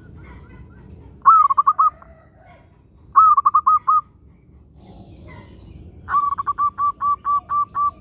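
Zebra dove (perkutut) calling: three phrases of quick, ringing staccato coos, the last and longest with about ten notes. Fainter chirps from other birds are in the background.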